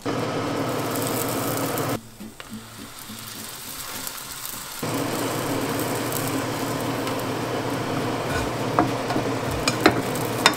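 Hotteok dough frying in oil in a hot frying pan, a steady sizzle. It falls quieter for a few seconds about two seconds in, then comes back at full strength. A few light clicks sound near the end.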